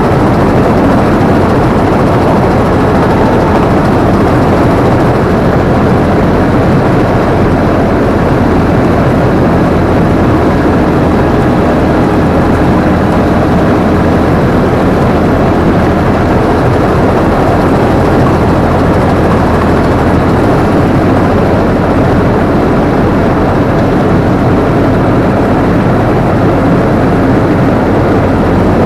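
Combine harvester running steadily: a loud, even drone of engine and machinery with a constant low hum, heard from the operator's position.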